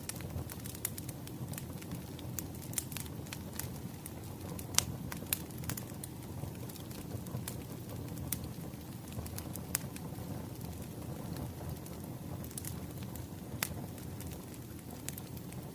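Crackling wood fire: a steady low rumble of burning logs with irregular sharp pops and snaps.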